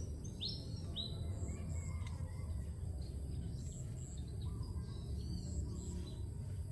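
Wild birds calling in waterside vegetation: scattered short chirps and two clear falling whistled notes about half a second and one second in, over a steady low background rumble.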